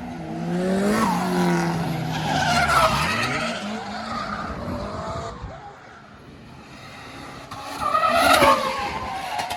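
Drift cars on track: an engine revving and falling in pitch with tyres squealing in a slide, then a second loud burst of tyre squeal and engine about eight seconds in.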